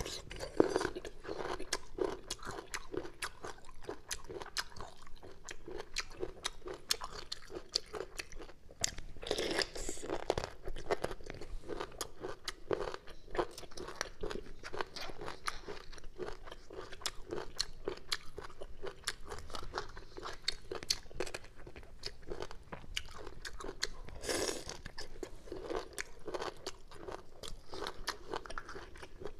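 Close-up crunchy chewing of crisp, tender bamboo shoots, with a steady rhythm of chews and sharp crunches. A few louder bites stand out: one at the start, one about a third of the way in and one near the end.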